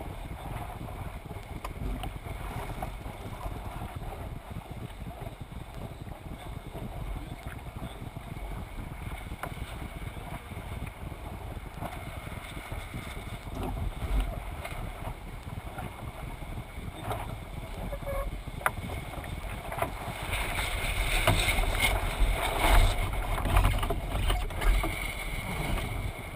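Wind on the camera microphone and water rushing along the hull of a Thistle sailing dinghy under sail, with occasional light knocks. It grows louder from about twenty seconds in.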